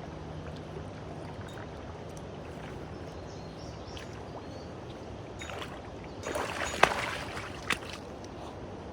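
Steady rush of river rapids, with a brief louder burst of noise and a sharp click about two-thirds of the way through.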